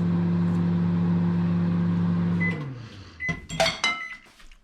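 Microwave oven running with a steady hum that winds down and stops about two and a half seconds in as the cooking cycle ends, followed by a few short high beeps and some clicks and knocks.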